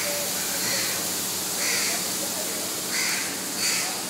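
Birds calling several times over a steady background hiss.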